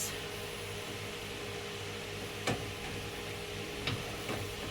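Steady low hum with a background hiss, broken by a light click about two and a half seconds in and two fainter clicks near the end.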